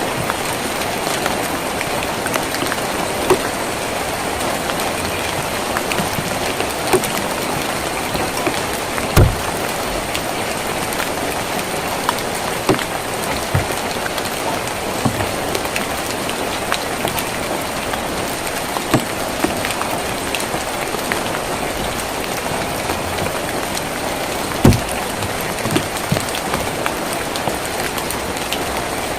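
Steady rain drumming on a tin roof, with scattered sharper drops striking the metal and two heavier knocks, one about nine seconds in and one near the end.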